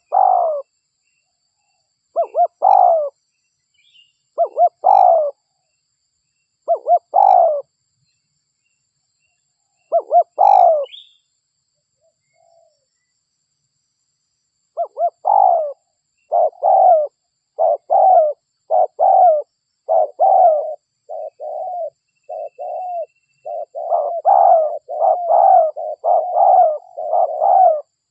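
Derkuku (spotted dove) cooing: short multi-note coo phrases every two to three seconds, then, after a pause, a long run of quick repeated coos from about halfway through.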